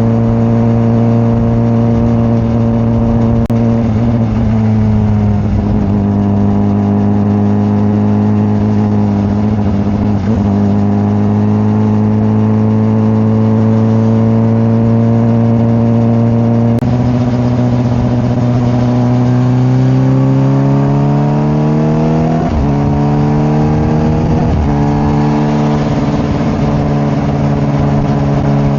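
Honda CBR600RR inline-four engine running at a steady cruise, then accelerating, its pitch climbing with two brief dips at the upshifts before easing off near the end.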